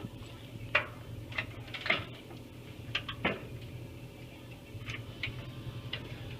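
Scattered light metallic clinks and knocks, about eight of them at irregular intervals, from a steel patch piece and tools being handled. A steady low hum runs underneath.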